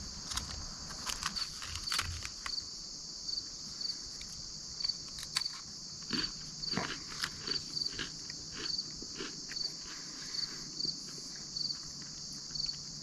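Dry, crunchy MRE vegetable crackers being bitten and chewed in irregular crunches. Behind them runs a steady high insect chorus with regularly repeating chirps.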